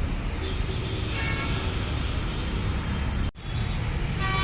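Steady road traffic noise with vehicles running past. Short pitched vehicle horn toots come about a second in and again near the end. The sound drops out for an instant a little past three seconds.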